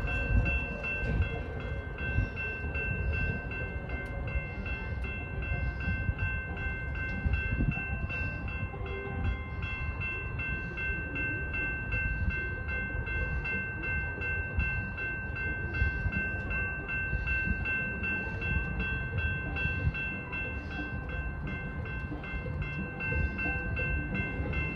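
Freight train rolling slowly, shoved by two GE C44-9W diesel locomotives: a steady low rumble with a constant high-pitched whine over it.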